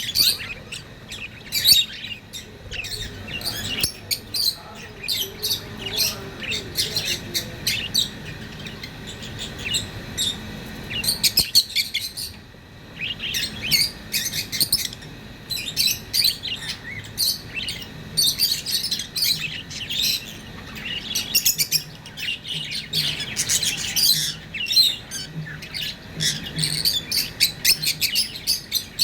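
Budgerigars chirping and warbling in fast, busy chatter, with a brief lull about twelve seconds in.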